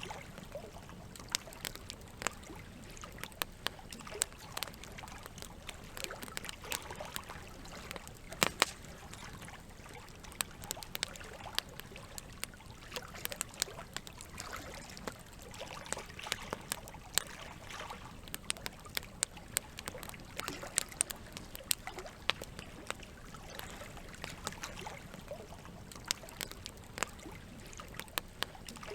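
Campfire crackling, with frequent sharp irregular pops over the steady trickle of flowing water.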